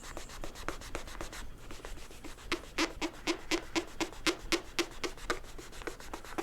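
Hand scrubbing back and forth on a mobility scooter's plastic to rub off paint marks: light strokes at first, then after a brief pause about four quick, harder strokes a second for a few seconds.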